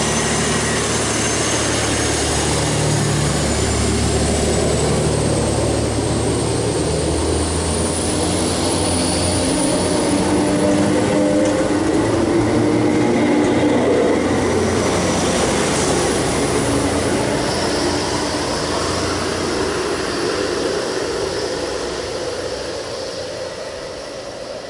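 Transport for Wales Class 769 bi-mode multiple unit pulling out under diesel power and passing close by: a steady engine drone, with a thin high whine that rises in pitch as it picks up speed. It is loudest about halfway through and fades as the train draws away.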